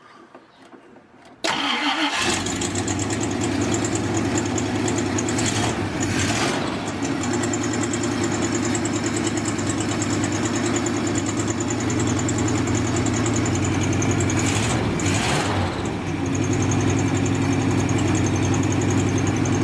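AMC 327 V8 of a 1963 Jeep Gladiator firing up about a second and a half in, just after its distributor was reinstalled turned 180 degrees, then running steadily at idle with a few short throttle blips.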